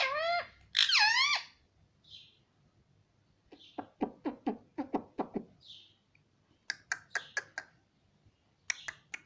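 Indian ringneck parrot vocalising: two swooping calls at the start, a quick run of about six short notes in the middle, then short clicks and chirps near the end.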